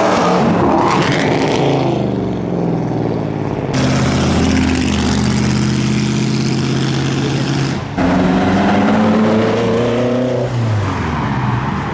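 A car engine revving hard as the car accelerates, its pitch stepping with gear changes about four and eight seconds in, then climbing and dropping away near the end.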